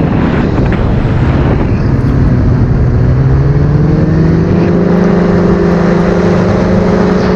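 Paratrike's propeller engine running in flight, loud and steady; its pitch sags slightly a couple of seconds in, then rises and holds as the craft turns for another circuit.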